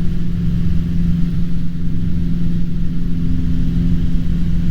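Cessna 150's four-cylinder Continental O-200 engine and propeller running steadily in flight, a constant low drone.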